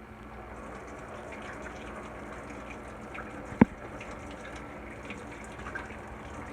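Marsala wine sauce bubbling steadily in a pot at the boil, with small popping ticks. One sharp click about three and a half seconds in is the loudest sound.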